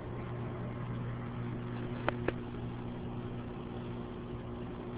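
Steady machine hum holding a few fixed tones, with two sharp clicks in quick succession about two seconds in.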